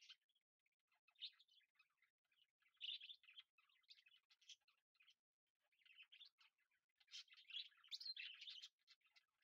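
Very faint bird chirping, short rapid chirps in clusters that are strongest about three seconds in and again near the end.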